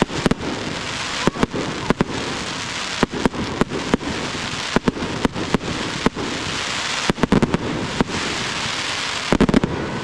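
Aerial fireworks display: shells bursting as a steady run of sharp bangs over a continuous hiss, with quick clusters of bangs about seven seconds in and just before the end.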